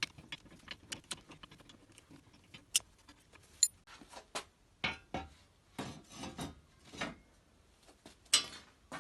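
Hand work on an old cast iron bench: irregular clicks and light knocks, with a few short scraping strokes and a louder scrape near the end.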